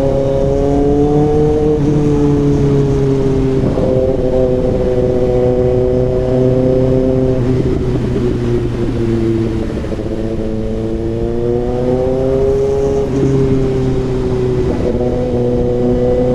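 Kawasaki ZX-6R inline-four running through an SC Project CRT exhaust at steady revs, its note drifting slowly down and back up with a dip about ten seconds in.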